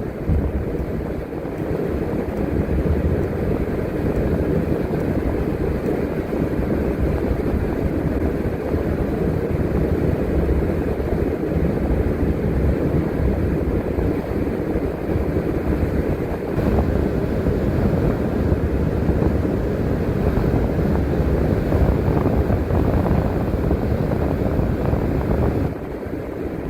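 Transit bus driving along, a steady rumble of engine and road noise with some wind.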